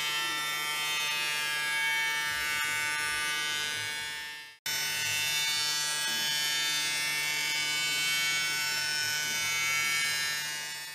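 Automated milling machine's high-speed spindle cutting a raw carbon clincher rim: a steady, high-pitched whine with many overtones. It breaks off about four and a half seconds in and starts again at once.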